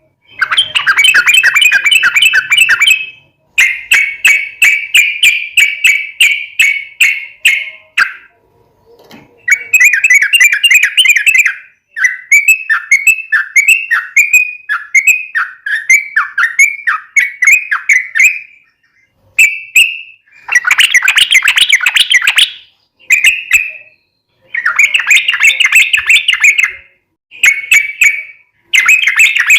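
Yellow-vented bulbul (trucuk) singing loud, rapid chattering phrases, each one to three seconds long with short pauses between. Near the middle it gives a run of quick falling notes.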